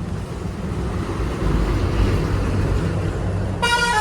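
Tractor engine running, getting louder about a second and a half in, then a horn honks near the end.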